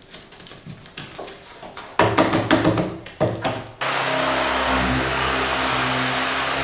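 Irregular knocks and clatter, then about two-thirds of the way in a steady motor starts abruptly and keeps running.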